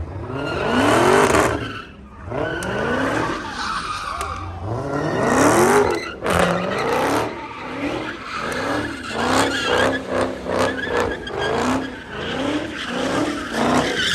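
A car doing donuts with its tyres squealing while the engine revs hard, rising in pitch twice, then blipped rapidly over and over near the end.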